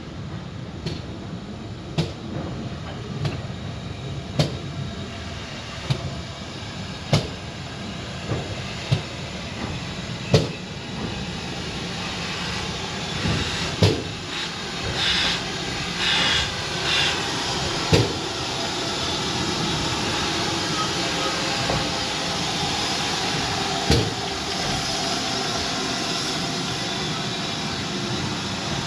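Train moving on the track, its wheels clacking over rail joints about once a second, followed by a steady rushing noise that grows louder in the second half.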